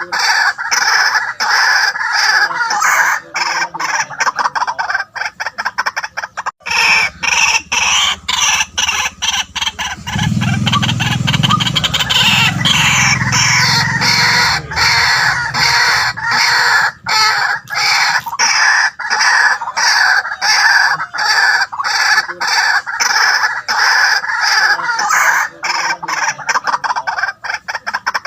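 White-breasted waterhen calling loudly: a long run of fast, repeated harsh notes. A low rumble joins underneath from about seven to sixteen seconds in.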